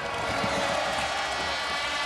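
Engines of a multi-engine modified pulling tractor running at high revs, a steady, dense engine sound.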